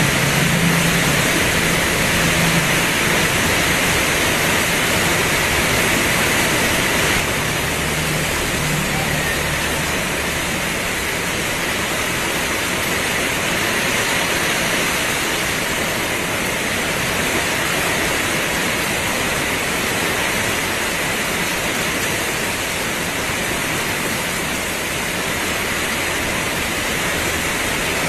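Heavy rain pouring steadily, a dense even hiss, with a low hum under it during roughly the first ten seconds.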